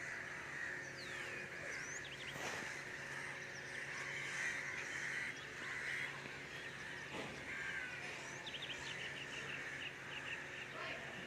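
Birds calling and chirping in the open, short whistles and sliding calls over a steady background hum, with a quick run of chirps about eight or nine seconds in.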